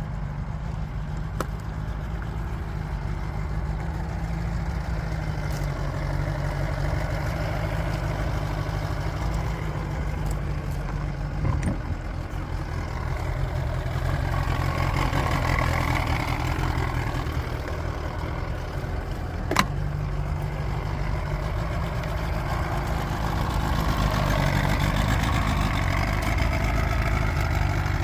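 1980 Mercury 50 hp in-line four-cylinder two-stroke outboard motor running steadily near idle. It grows somewhat louder and busier around the middle and again toward the end. A single sharp click sounds about twenty seconds in.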